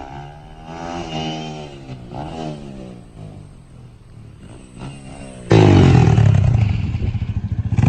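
Dirt bike engine revving up and down, then about five and a half seconds in a much louder, closer engine sound cuts in suddenly and keeps running hard with a fast pulsing beat.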